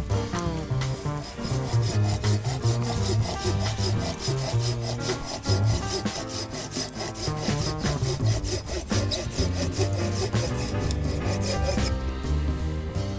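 A rhythmic scraping, several quick strokes a second, over background music with a bass line; the scraping stops about a second before the end while the music carries on.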